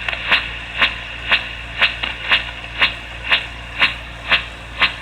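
Radio receiver in lower sideband mode playing a strange signal: sharp, evenly spaced ticks about twice a second over steady static hiss. The signal is unidentified interference that drifts across nearby frequencies.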